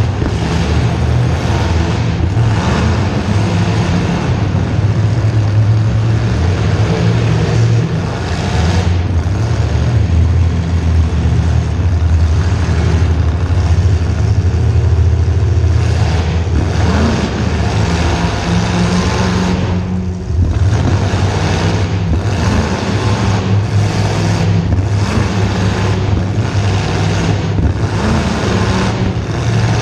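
Demolition derby car's small-block Chevy V8 running loud and hard, its low engine note steady with repeated surges, dropping off for a moment about twenty seconds in.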